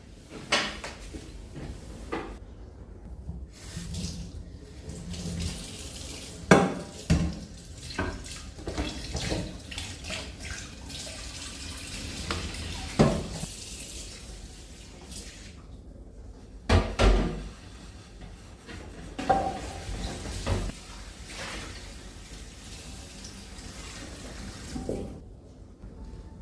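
Water running from a tap into a sink, with dishes and cutlery knocking and clinking now and then, as in washing up.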